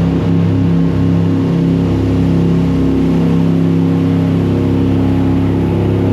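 Jet boat engine running steadily at speed, an even low drone that holds its pitch.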